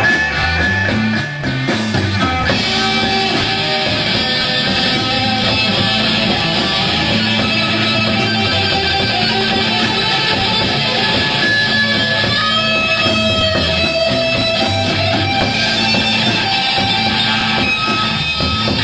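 A rock band playing live, electric guitar to the fore, the music going on without a break.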